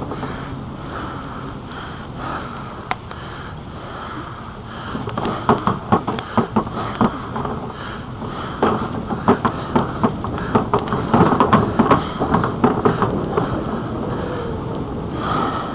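Bicycle rolling along a trail with a steady rush of wind and tyre noise, and a run of sharp clicks and rattles through the middle stretch.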